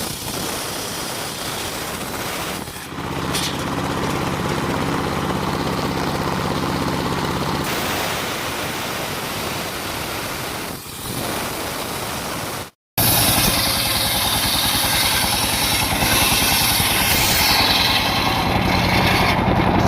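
Engine of a portable circular sawmill running steadily. The sound cuts out for a moment about thirteen seconds in and comes back louder.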